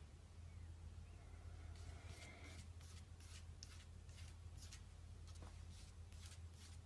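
A cat lapping faintly, a soft wet tick about three times a second, over a low steady hum.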